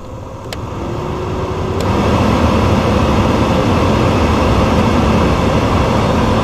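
Volkswagen Gol G3's electric radiator cooling fan spinning up over about two seconds, then running steadily with a loud rush of air. The loose white plastic piece that had been catching in it has been removed. Two light clicks come in the first two seconds.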